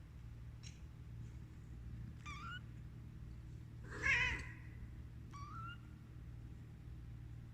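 Domestic cat meowing four times in short calls that rise in pitch; the third, about four seconds in, is the loudest. A steady low hum runs underneath.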